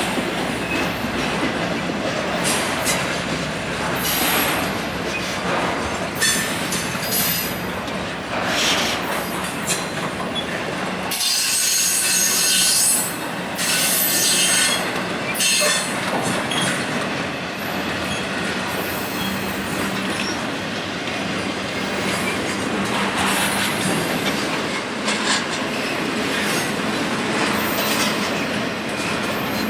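Freight train cars rolling steadily past, wheels clicking over rail joints, with a high steel-wheel screech about eleven seconds in.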